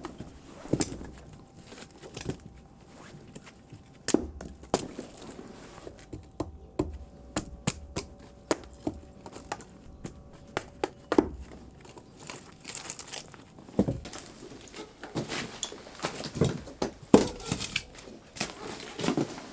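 Firewood being split and handled: irregular sharp knocks and cracks of wood, with a few louder strikes about four seconds in and again in the last few seconds.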